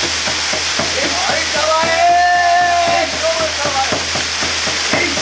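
Waterfall pouring and splashing steadily, with a person's voice holding a high, chanted call for about a second near the middle.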